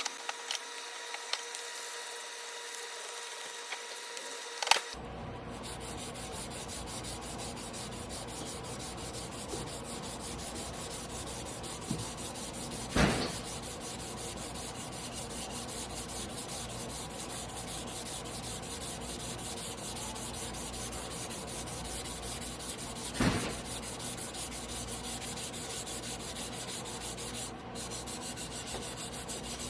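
A 300 mm carbon-steel yanagiba blade being stroked back and forth by hand on a whetstone, a steady rasping grind. Two sharper knocks come about ten seconds apart, and there are a few light clicks at the start.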